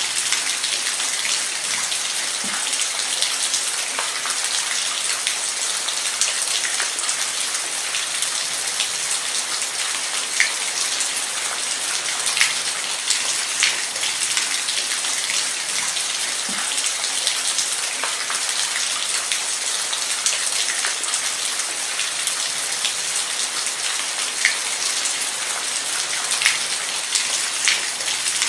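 Steady rain falling on a surface: an even hiss with scattered louder drops ticking through it.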